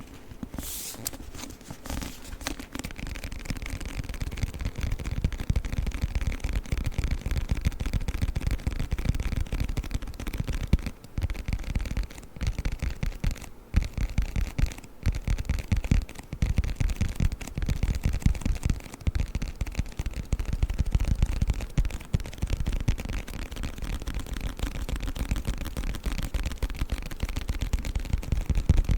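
Fast ASMR triggers on a book: rapid, dense tapping and scratching on it, with a couple of brief pauses partway through.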